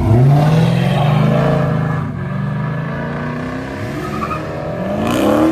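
Car engine revving hard as the car accelerates: it starts suddenly and loudly, its pitch climbs then settles, and it climbs again near the end.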